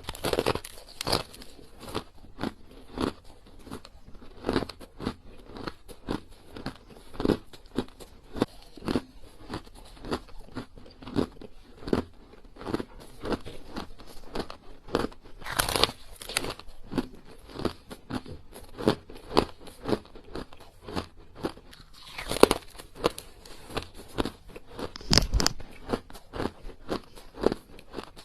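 Ice being bitten and chewed close to the microphone: a rapid, irregular run of crunches and cracks as small hard ice pieces break between the teeth, with a few louder bites along the way.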